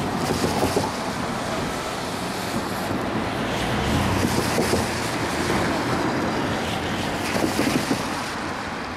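Slow-moving freight train rolling on the rails, a steady noise with bursts of sharper clatter about half a second in and again near the end, mixed with wind noise on the microphone.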